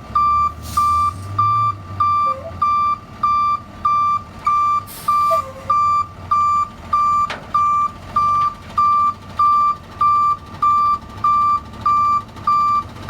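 Tow truck's reversing alarm beeping steadily at about two beeps a second while the truck backs up, with its engine running low underneath, a little louder in the first few seconds.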